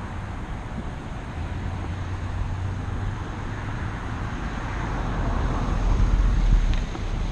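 Road traffic: a car passing close, growing louder to a peak about six seconds in and then falling away, over a steady low rumble.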